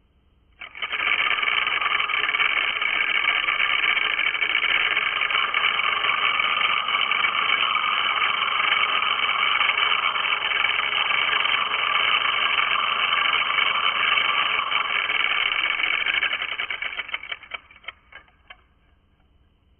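Tattoo machine running at slow speed, a steady mechanical buzz of the needle starting about a second in. Near the end it slows, breaks up into separate clicks and stops.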